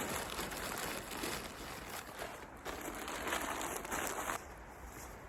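Rustling and crinkling of camping gear being folded and stuffed into a bag, in uneven swells that quieten about four seconds in.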